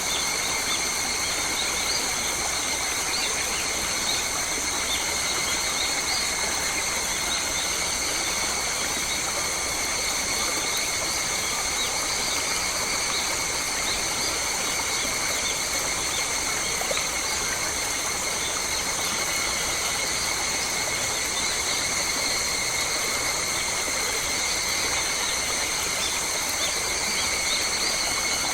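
Australian bush ambience: a steady high-pitched drone at several pitches over an even hiss, unchanging throughout.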